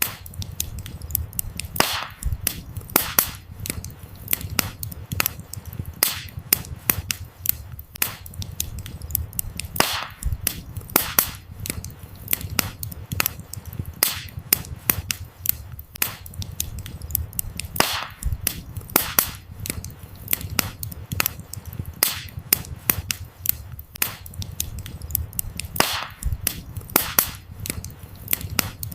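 Wood fire crackling: frequent sharp pops and snaps of burning firewood over a steady low rumble of the flames.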